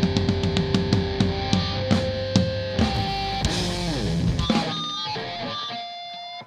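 Live rock band playing the closing bars of a song, with electric guitar and rapid drum hits that spread out as they go. A note slides down in pitch about four seconds in, then held notes die away.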